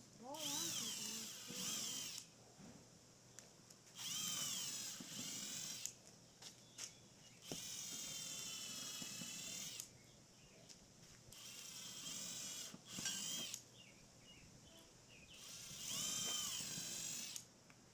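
Power drill running in short bursts, about five of them, each one a whine whose pitch rises and then falls as the motor speeds up and slows down.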